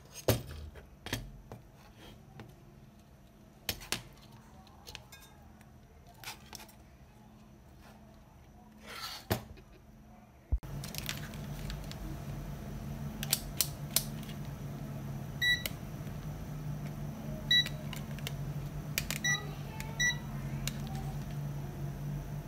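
Scattered sharp clicks, then a click about ten seconds in as a steady low electrical hum switches on, followed by several short high beeps from electronic equipment on the bench.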